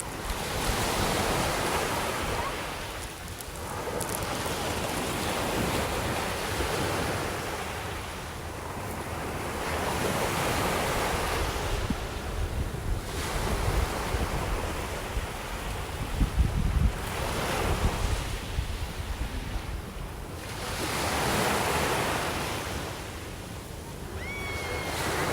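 Sea waves breaking and washing up the beach in a slow rhythm, one surge about every four to five seconds, with wind buffeting the microphone in the middle.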